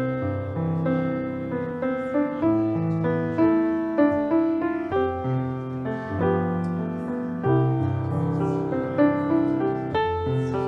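Solo piano playing a slow, gentle piece, with notes and chords struck in a steady flow.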